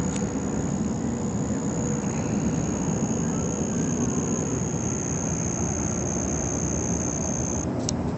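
A constant, loud low roar from the sky, like jet engines, that is not thunder. A thin, steady high whine runs over it and stops near the end.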